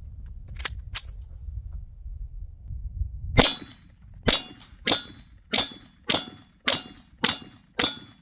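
A low rumble, then from about three seconds in a 9mm pistol, the ZRO FKS-9, fired in a steady string of about eight shots, roughly one every 0.6 seconds.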